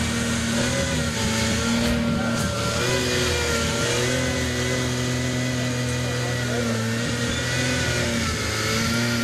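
Aston Martin Vulcan's 7.0-litre V12 idling steadily, with a slight dip and rise in pitch about two to three seconds in.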